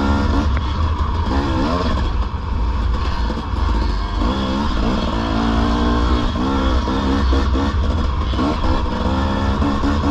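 Dirt bike engine being ridden, revving up and down again and again, its pitch rising and falling with the throttle and gear changes, over a steady low rumble.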